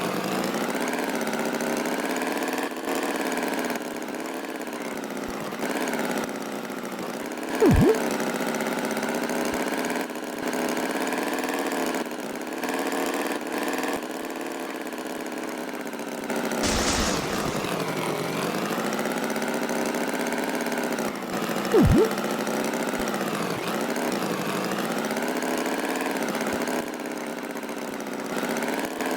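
Tractor engine running steadily, its pitch wavering slightly. A brief loud sound cuts in about 8 seconds in and again about 22 seconds in, and a short hiss comes about halfway through.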